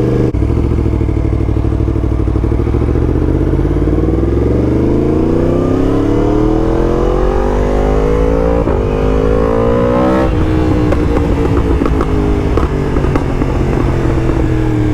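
Yamaha MT-10's crossplane inline-four running through a titanium Akrapovic race exhaust under way: a steady note, then rising in pitch as the bike accelerates from about four seconds in, with a brief break near nine seconds. The note drops back about ten seconds in and settles, slowly falling.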